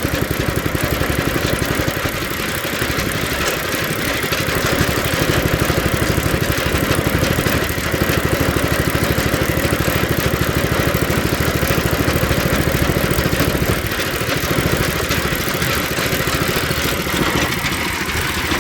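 5-horsepower small engine with a weighted (mechanical) governor, running steadily at an even idle with a fast, regular firing beat.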